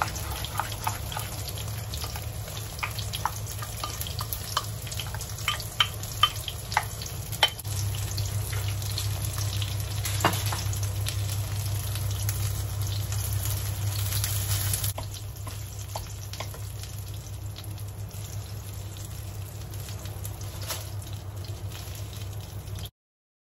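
Slabs of firm tofu sizzling as they pan-fry in shallow oil in a wok, a steady hiss over a low hum. Sharp clicks and taps of a spatula and chopsticks against bowl and pan come often in the first several seconds. The sizzle eases about fifteen seconds in and cuts off abruptly near the end.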